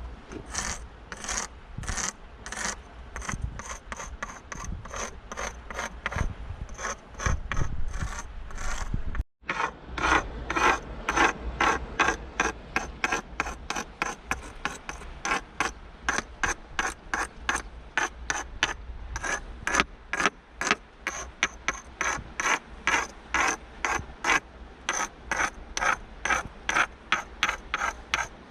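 Rhythmic rasping scrapes, about two to three strokes a second, of a hard object scratched repeatedly over rock to draw a character. The strokes break off for a moment about nine seconds in.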